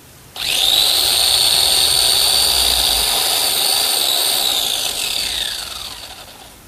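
Electric chainsaw switching on suddenly and running at a steady high whine for several seconds, then winding down with falling pitch as it fades out near the end.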